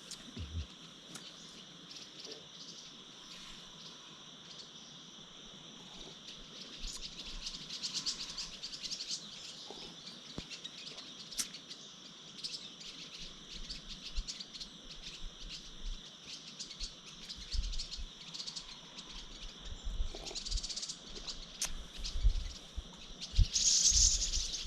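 Wild birds chirping and calling over a steady high insect drone, with the loudest burst of chirps near the end. A few soft low thumps come in the second half.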